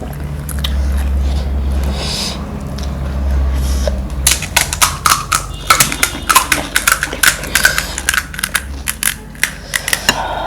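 Close-up crunching of crisp panipuri shells being bitten and chewed: a rapid run of sharp crackles starting about four seconds in, after a low hum.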